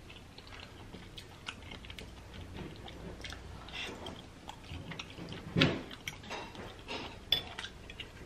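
Close-miked, wet chewing of a mouthful of birria ramen noodles, with many small soft mouth clicks and a louder smack about five and a half seconds in.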